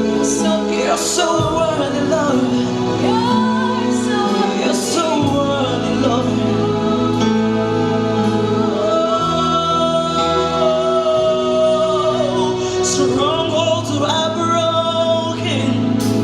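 Gospel worship song: voices singing long, gliding notes over steady instrumental backing.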